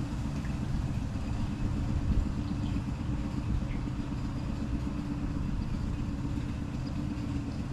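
Small boat's outboard motor running at idle speed, a steady low drone with a constant hum; the engine has just been serviced with new spark plugs and is running smoothly.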